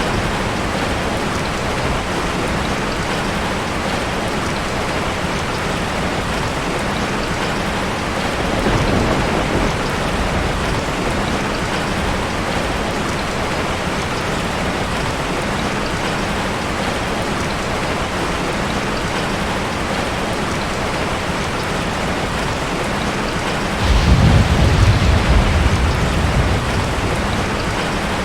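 Steady heavy rain. Near the end a low rumble of thunder starts suddenly and fades over a few seconds, with a fainter rumble about a third of the way through.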